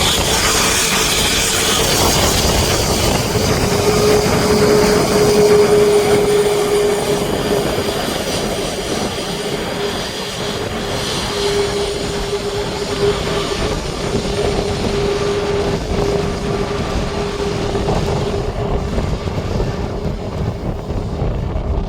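Jet airliner engines running with a steady tone, the high hiss slowly fading as the aircraft moves away, with wind rumbling on the microphone.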